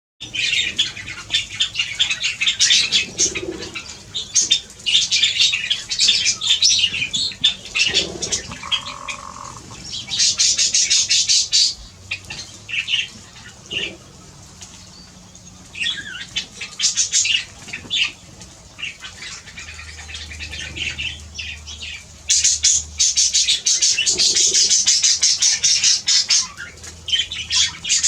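Wild birds squawking and chattering in repeated loud bursts, with quieter stretches between.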